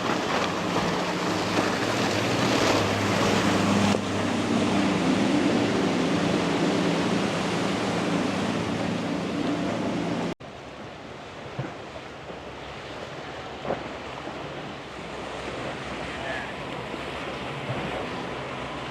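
Wind on the microphone and surf washing, with the steady hum of a boat engine underneath. About ten seconds in, the sound cuts abruptly to a quieter wash of wind and water.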